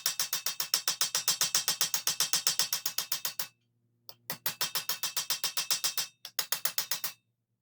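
Steel armour lame being hammered on its edge with a curved-face hammer: rapid, even light blows, about eight a second, each with a bright metallic ring. The hammering shrinks stretched metal back toward the centre. It pauses about three and a half seconds in, breaks briefly near six seconds, and stops about half a second before the end.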